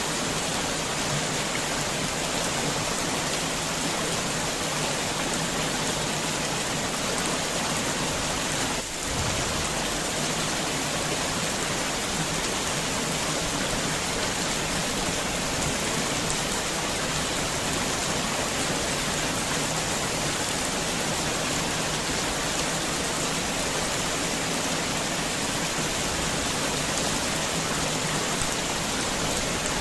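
Heavy rain falling steadily, a dense even hiss of drops on surfaces, with a brief dip in level about nine seconds in.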